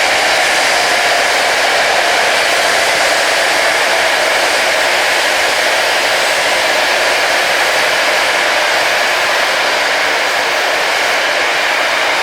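Rail grinder's grinding wheels working the railhead: a loud, steady, harsh rushing noise that eases slightly near the end.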